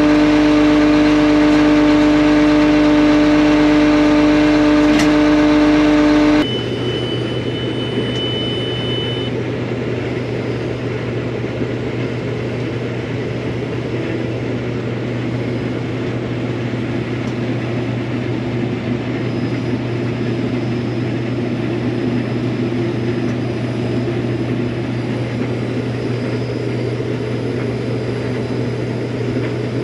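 Farm machinery engine running steadily, first as a strong droning hum. About six seconds in it switches abruptly to a lower, rougher running sound, with a short high beep for about three seconds right after the change.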